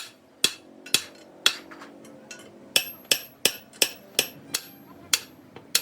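Hammer striking metal, about a dozen sharp blows, roughly two or three a second, the later ones leaving a thin high ring, as work goes on on a truck's rear suspension torsion shaft.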